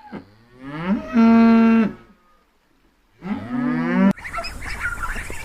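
Cattle mooing twice: two long moos that rise at the start and then hold a steady pitch, a second or so apart. The second moo cuts off abruptly.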